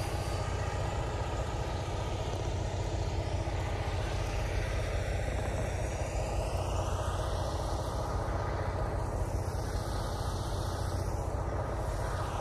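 Truck engine idling steadily with an even low hum.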